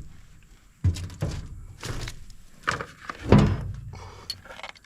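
A run of irregular heavy thunks and knocks, about five in all, with the loudest about three and a half seconds in: metal parts and tools being handled during repair work on a brush cutter.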